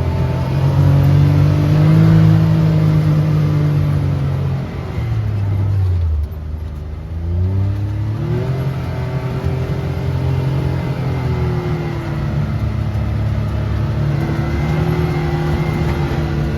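Can-Am Maverick X3 Max side-by-side's turbocharged three-cylinder engine running under way. About five seconds in its pitch falls as the throttle eases off, then it climbs again and holds a fairly steady pitch.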